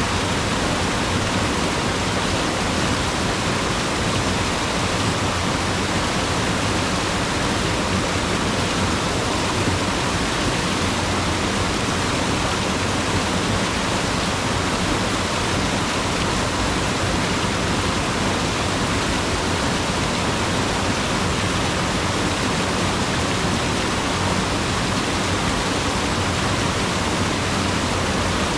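Mountain river rushing over rocks in a steady, unbroken flow of water noise.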